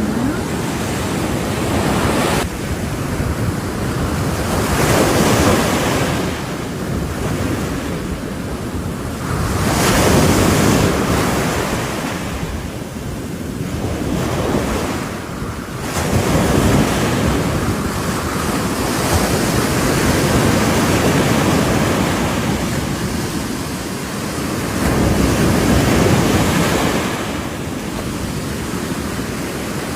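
Ocean waves breaking on a shore in a steady wash of surf, swelling and falling every few seconds, with wind buffeting the microphone.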